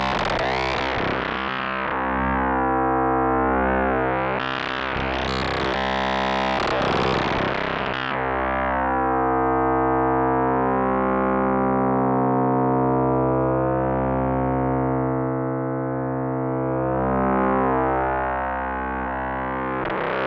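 K-ACCUMULATOR synthesizer oscillator module in its feedback phase-modulation mode (FBPM2), playing a sustained, gritty drone tone with a dense stack of overtones. Its brightness sweeps up and back down several times: in the first couple of seconds, around the fifth and seventh seconds, and again at the very end, while the low fundamental holds steady.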